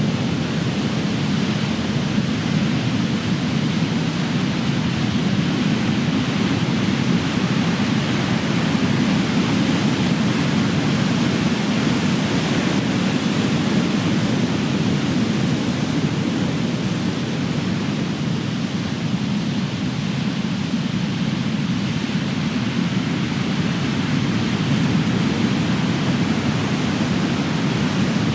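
Big ocean waves breaking on the shore, heard as a continuous wash of surf with no single crash standing out, easing slightly a little past the middle.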